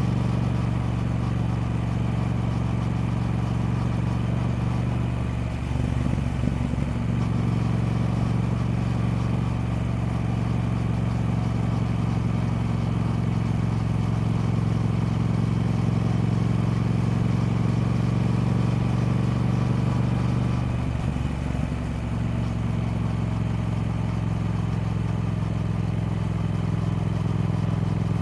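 Triumph Speed Twin parallel-twin engine running at a steady note. The note breaks briefly twice, about six seconds in and again around 21 seconds, as at a gear change.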